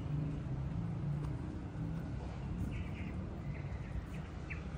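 Outdoor ambience: a steady low rumble with a few faint, short bird chirps in the second half.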